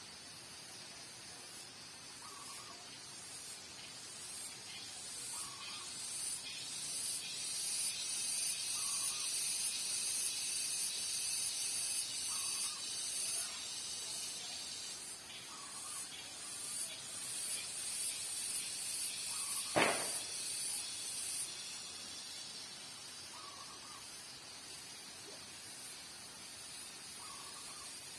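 Cicadas (garengpung) buzzing in a chorus, a high pulsing drone that swells over several seconds and then eases off after about 21 s. Spotted doves coo softly at intervals of a few seconds. There is a single sharp knock about 20 s in.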